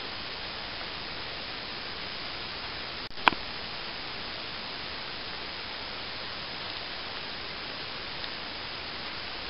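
Steady hiss of static, broken about three seconds in by a brief dropout and a single sharp click.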